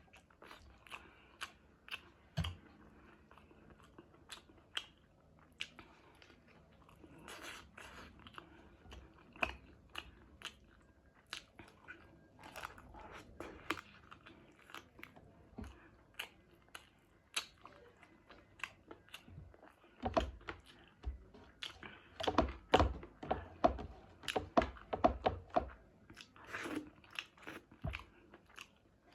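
A person chewing and biting food close to the microphone: wet chewing with frequent sharp crunches. The crunches come thick and loud for several seconds about two-thirds of the way through.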